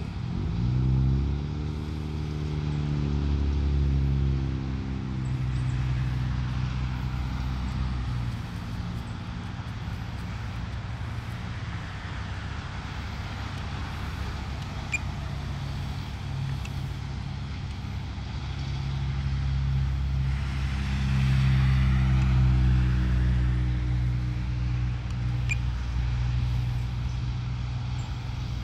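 A motor vehicle's engine running, rising in pitch right at the start, then swelling again about two-thirds of the way through along with tyre and road noise, as of a vehicle passing close by.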